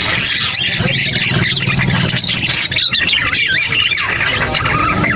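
Mynas giving harsh, squawking, chattering calls that overlap one another, over a steady low hum.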